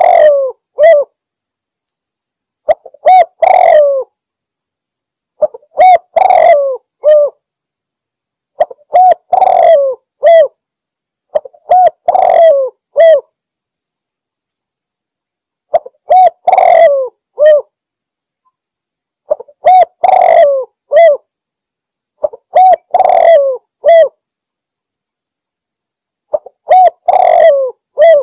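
Spotted dove (tekukur) giving its territorial cooing song, a short phrase of several coos repeated about every three seconds, nine times.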